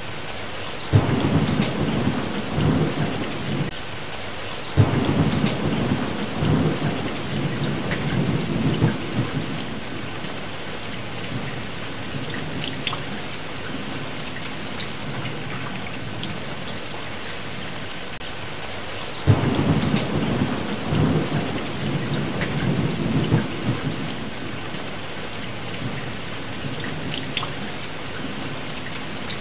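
Steady rain falling, with three rolls of thunder: each starts suddenly and rumbles low for a few seconds, the first about a second in, the second about five seconds in, and the third a little past the middle.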